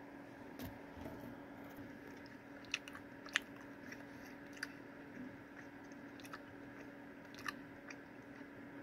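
Person chewing a Fruit Roll-Up fruit snack: a handful of sharp, sticky mouth clicks and smacks, spaced about a second apart, over a steady low hum.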